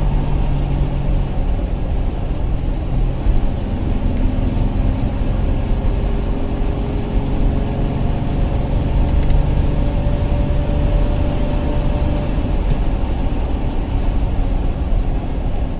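Vehicle driving on the road: a steady engine hum and tyre/road noise, with the engine's low tone drifting slightly in pitch.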